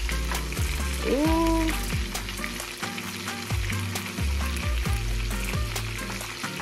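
Shrimp frying in hot oil in a skillet, sizzling and crackling steadily as a wooden spatula stirs and turns them. A deep bass beat runs underneath.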